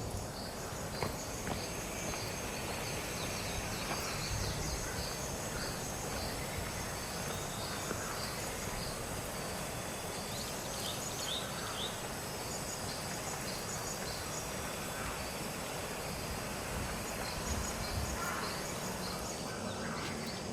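Outdoor ambience: a steady background hiss with faint, high chirps from birds or insects, repeating about twice a second for the first several seconds and again near the end.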